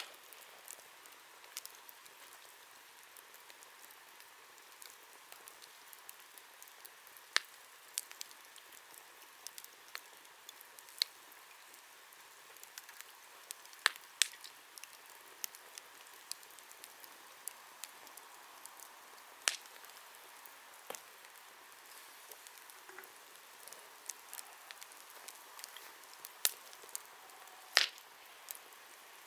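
Wood fire crackling: irregular sharp pops and snaps, a few louder than the rest, over a soft steady hiss of burning.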